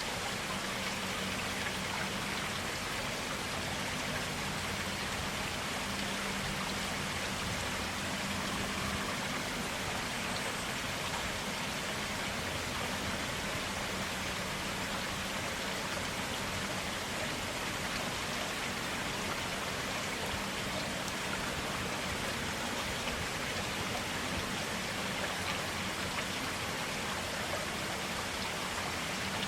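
Stream water flowing steadily, an even, unbroken wash of water noise.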